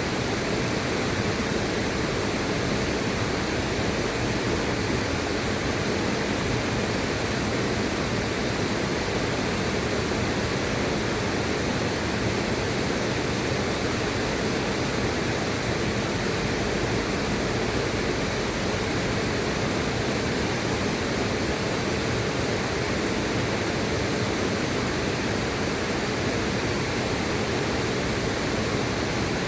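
Steady, unbroken rushing of river water, an even hiss spread from low to high with no splashes or changes.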